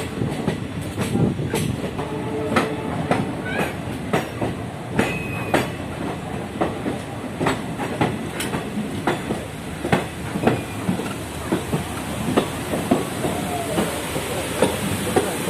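Passenger train running, heard from on board: a steady rumble with the wheels clattering irregularly over the rail joints.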